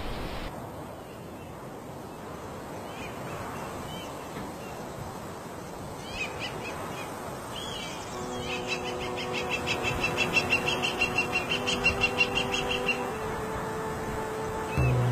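Outdoor ambience of birds calling over a steady hiss: scattered short chirps, then about eight seconds in a rapid pulsing bird call that goes on for about five seconds. Under it, sustained soft tones come in and shift near the end.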